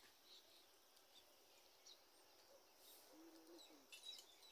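Near silence with faint, scattered bird chirps, coming more often near the end.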